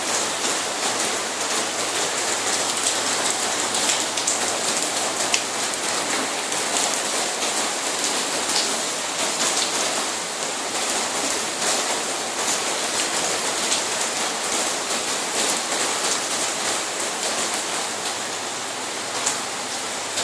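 Heavy rain falling steadily, pattering on hard surfaces, with many individual drop impacts heard as small sharp ticks in a continuous hiss.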